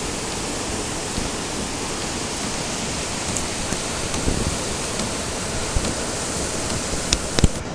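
Steady rush of the Zeballos River running high in flood, with a few sharp clicks near the end.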